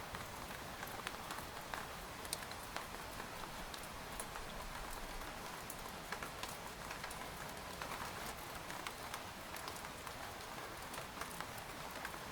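Steady rain falling on a tent, a soft even hiss with many separate drops ticking on the fabric.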